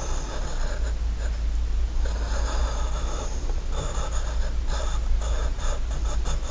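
Pen or pencil scratching across paper close to the microphone, in longer strokes and then a run of quick short strokes, as in hatching or shading. A steady low hum lies underneath.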